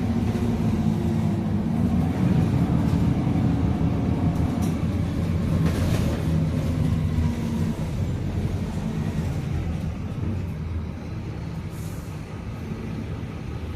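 Diesel engine of a Scania K310UA articulated city bus running under way, a steady low drone whose pitch rises and falls over the first few seconds, with a few light clicks and rattles. It grows quieter in the second half, as if the driver eases off the throttle.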